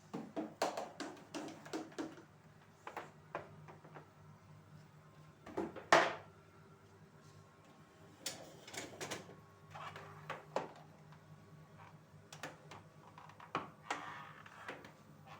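Household items knocking and clattering as they are handled and set down, a string of irregular clicks and knocks with one louder knock about six seconds in, over a low steady hum.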